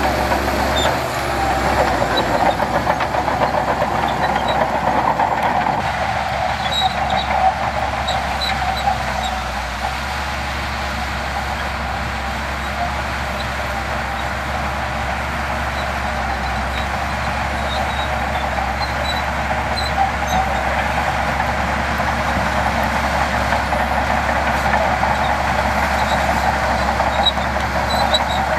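Heavy diesel earthmoving machinery running steadily under work, with small scattered metallic ticks and squeaks over the engine noise.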